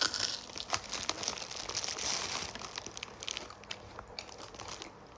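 Crunching of crispy Vietnamese fried banana (bánh chuối chiên) being chewed close to the microphone, a run of crackly crunches.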